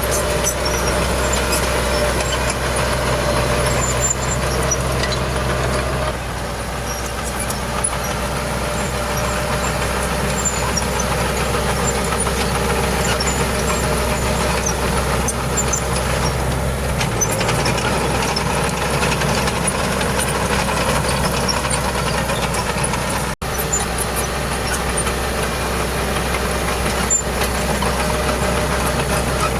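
Heavy diesel engine of earthmoving machinery running steadily under work, its low drone shifting in tone about six seconds in.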